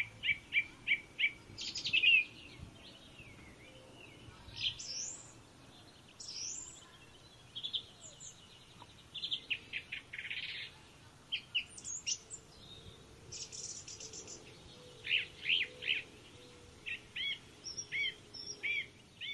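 Songbirds calling and singing, with quick runs of short chirps and rising whistled notes coming on and off throughout.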